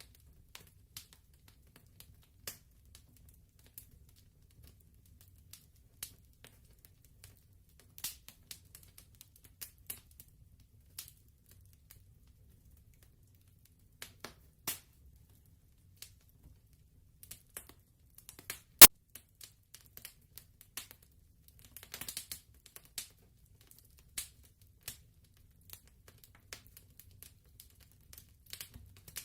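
Wood fire crackling in a fireplace: scattered irregular pops and snaps over a faint low rumble, with one sharp loud pop a little past the middle and a quick flurry of crackles soon after.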